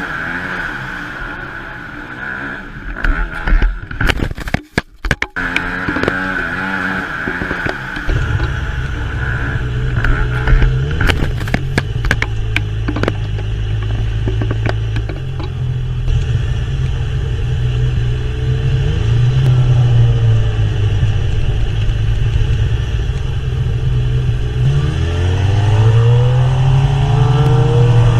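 Motorcycle engines running under way, in several clips joined with abrupt breaks; from about eight seconds in the engine note is strong and steady, and near the end it climbs in pitch again and again as the bike accelerates through the gears.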